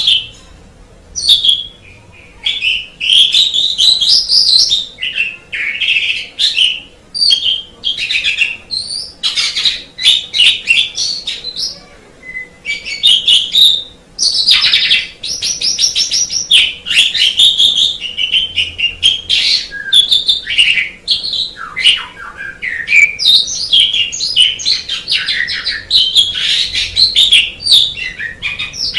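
White Asian pied starling (jalak suren) singing a long, varied run of chattering chirps and whistled phrases, with short breaks about a second in and near the middle.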